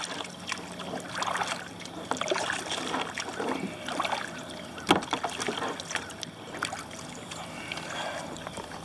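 Kayak paddle strokes in calm lake water: a swish and splash about once a second, with drips from the blades. A sharp knock about five seconds in.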